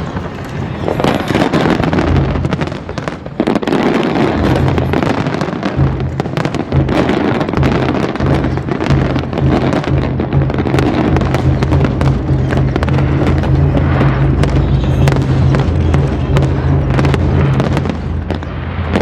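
Fireworks display bursting in rapid, continuous succession: many bangs and crackles over a steady low rumble of booms, with music playing alongside.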